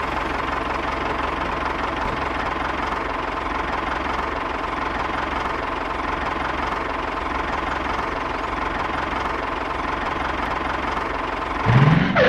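Tractor engine sound effect running steadily, as from a toy tractor, with a louder sound rising in pitch near the end.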